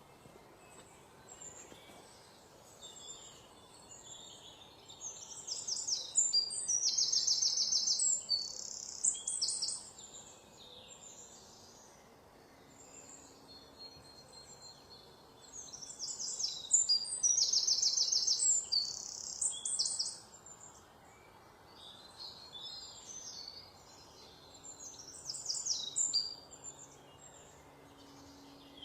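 Songbirds singing high, rapid trilled phrases: two long bouts about ten seconds apart and a shorter one near the end, over a faint steady background hiss.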